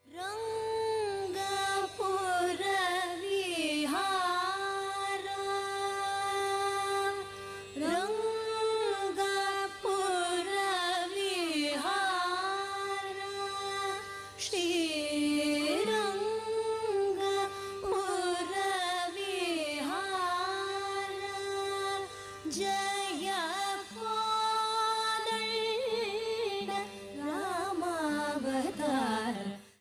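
A voice singing a Carnatic melody with held notes and wavering, gliding ornaments (gamakas), over a steady drone. It is pitched fairly high and breaks briefly every several seconds.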